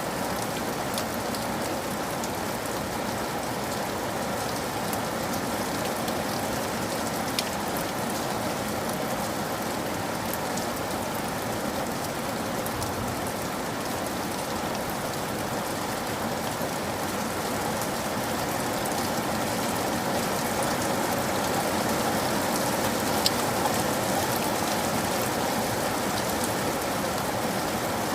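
Steady, heavy rain falling, with scattered sharp drop ticks; it grows a little louder about two-thirds of the way through.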